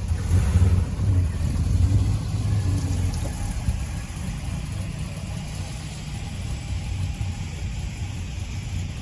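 A car engine running with a low, steady rumble, louder for the first few seconds and then easing off slightly.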